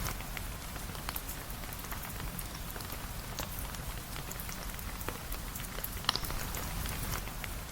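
Steady rain with a dense hiss and many small scattered drip ticks, and a sharper single click about six seconds in.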